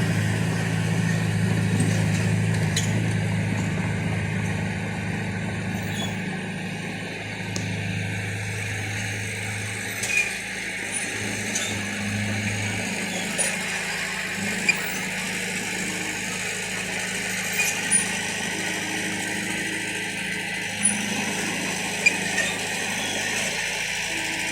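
Heavy-equipment diesel engine running steadily, dying away about halfway through, after which only scattered light clicks and brief high ticks are heard.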